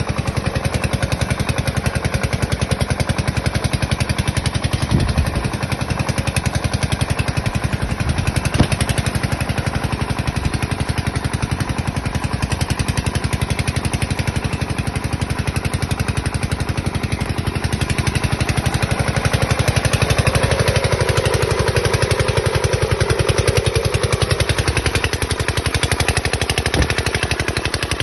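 Homemade hand-crank-start tractor engine running with a rapid, even beat, with a couple of sharper knocks early on and a mid-pitched hum that swells in the second half.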